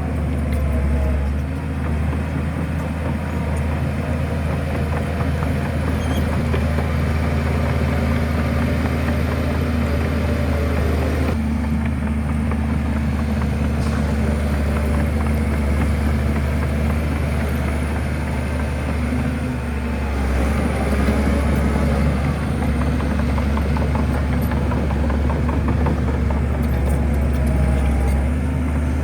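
Heavy diesel engine of a Shantui crawler bulldozer running with a deep, steady drone, its low note swelling louder about twenty seconds in.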